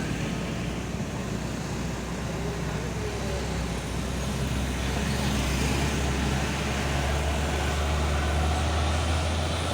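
A large road vehicle's engine running, a low steady drone over road noise that grows louder through the second half as the vehicle draws near.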